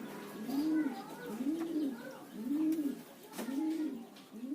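Spotted dove cooing: a run of low, arched hoots repeated about once a second, each rising and falling in pitch, played as a lure call to draw other spotted doves into calling. Faint high chirps of small birds sound alongside.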